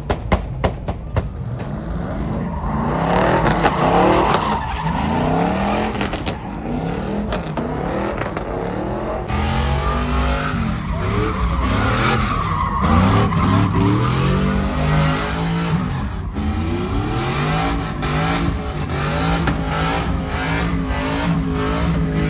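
Vehicle engines revving up and down again and again, with tires squealing and skidding.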